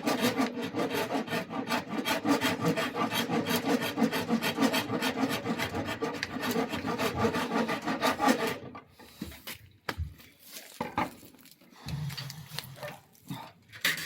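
Quick, even strokes of a hand tool rasping wood off an oak bow limb as it is tapered. The strokes stop about nine seconds in, followed by a few light knocks and clicks.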